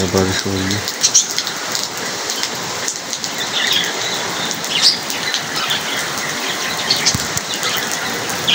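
Steady heavy rain falling on roofs, leaves and the street, an even hiss, with a few short high bird chirps scattered through it. A brief hum-like voice sounds in the first second.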